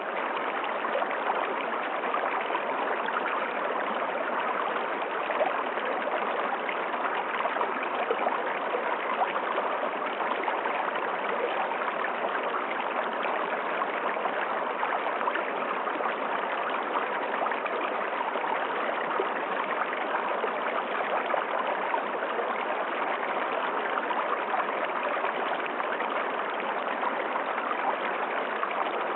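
River water flowing, a steady, even sound of moving water.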